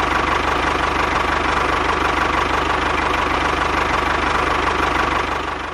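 An engine idling steadily with a fast, even chug, dropping away near the end.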